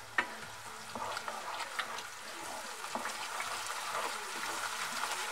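Spice masala paste frying in oil in a non-stick kadai, a soft steady sizzle while a wooden spatula stirs and scrapes through it, with a few light taps of the spatula on the pan. The masala is at the bhuna stage, fried down until the oil separates.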